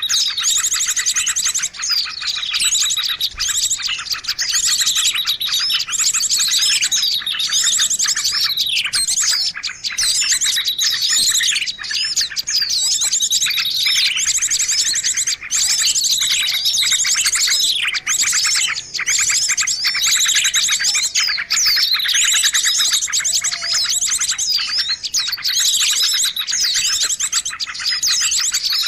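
A mixed chorus of many small birds chirping and trilling without pause: a bird-lure recording for attracting small songbirds. Fast buzzy trills overlap with high notes that sweep downward over and over.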